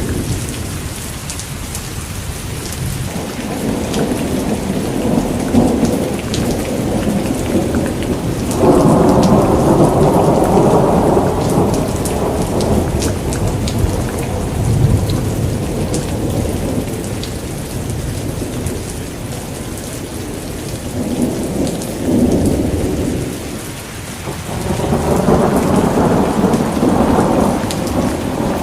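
Steady heavy rain with thunder rumbling: one long rumble swells up about a third of the way in, and another builds near the end.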